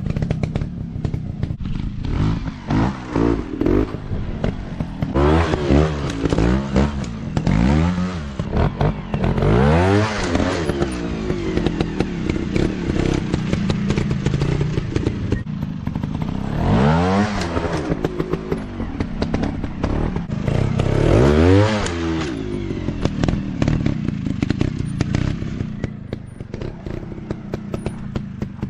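Dirt bike engines running and revving, rising and falling in pitch in repeated surges over a steady lower engine note, with scattered clattering knocks.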